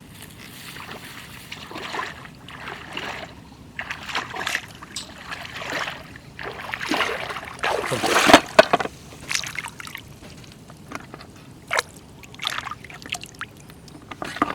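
Irregular splashing and sloshing in shallow water, loudest about eight seconds in, as of someone wading and reaching into floodwater.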